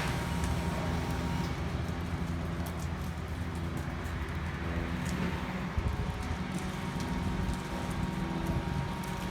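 An engine running steadily at idle, with scattered light ticks and snaps over it.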